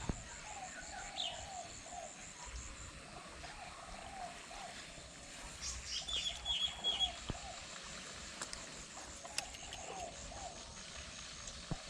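Outdoor animal calls: a run of short, repeated calls keeps going, over a high, fast pulsing insect-like trill. A burst of higher bird chirps comes about six seconds in.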